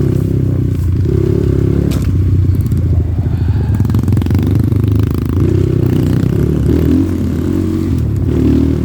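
Off-road dirt bike engine running steadily at low revs, with a sharp knock about two seconds in.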